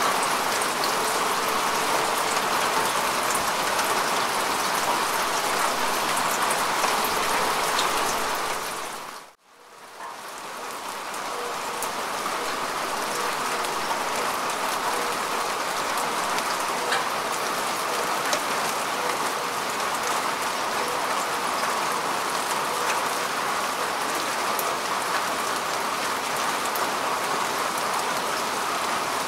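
Steady rain falling on grass and earth, an even hiss of many drops. About nine seconds in, it fades out to near silence and swells back up over a couple of seconds.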